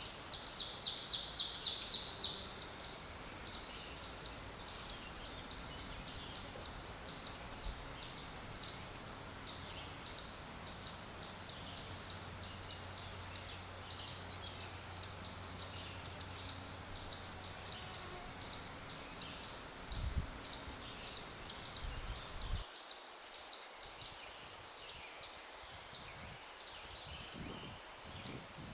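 Small birds chirping: a steady run of short, high notes about three a second, with a fast trill in the first couple of seconds.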